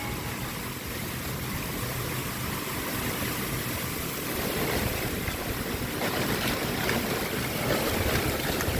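Thunderstorm wind and rain making a steady rushing noise that grows louder about halfway through.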